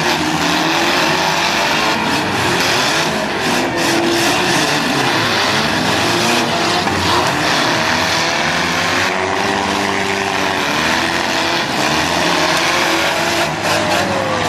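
Several demolition derby cars' engines revving at once, their pitches rising and falling over each other, with a few sharp knocks of cars hitting.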